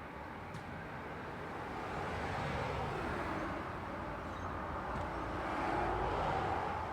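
Road traffic with vehicles passing, a steady rush of tyre and engine noise that swells twice, loudest about six seconds in.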